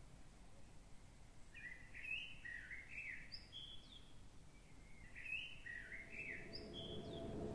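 A songbird sings the same short phrase of quick chirps twice, faint over a soft outdoor hiss. Near the end a low, steady hum fades in and grows louder.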